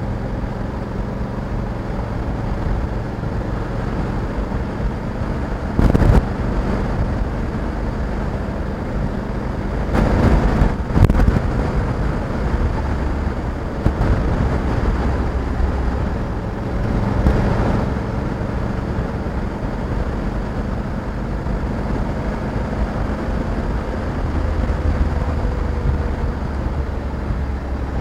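Honda Africa Twin 1100's parallel-twin engine running steadily under way, with road and wind noise. Brief louder bursts come about six seconds in and again around ten to eleven seconds in.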